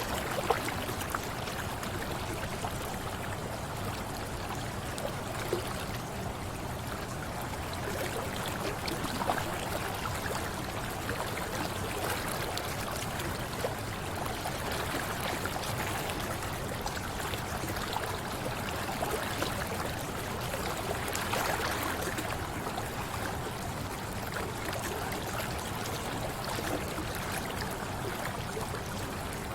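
Mountain river flowing: a steady rush and gurgle of running water, with a few brief louder splashes.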